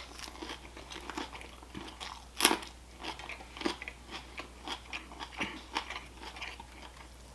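Close-up chewing of a butter-lettuce wrap: an irregular run of soft, crisp crunches and wet mouth sounds, with one sharper, louder crunch about two and a half seconds in.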